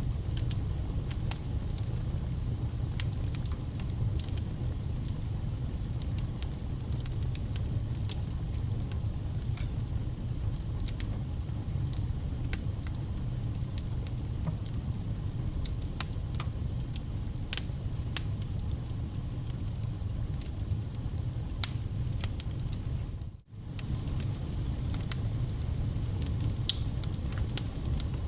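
Wood campfire burning: a steady low roar of flame with frequent sharp crackles and pops from the burning logs. About three quarters of the way through, the sound drops out for a moment and comes back.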